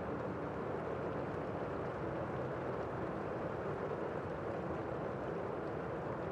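Steady rain falling outside, heard from inside a room as a low, even rush of noise with no separate drops standing out.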